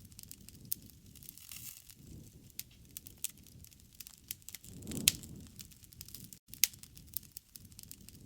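Wood fire crackling with irregular sharp pops over a low rustle of flame, and a swell of low rushing sound with a loud pop about five seconds in.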